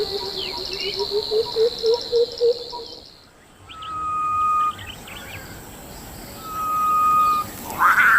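Wild bush ambience: a fast, high insect trill over a repeated low pulsing call for about three seconds, then after a short lull two long whistled bird notes a couple of seconds apart, and a louder chattering bird call near the end.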